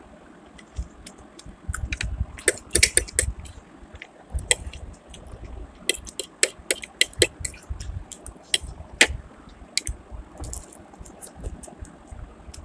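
Close-miked chewing of fried chicken pakora, with sharp wet mouth clicks, and a fork clinking and scraping on a ceramic plate. The clicks come in clusters, thickest a few seconds in, then again around the middle, with one loud click after that.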